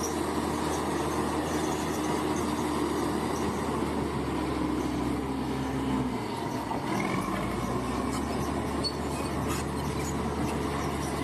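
Crawler bulldozer's diesel engine running steadily under load, its note shifting about six seconds in, with a brief faint squeal soon after.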